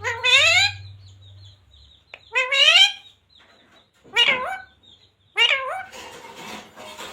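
Green parrot making four short, voice-like calls, one every second and a half to two seconds, each sweeping up and down in pitch.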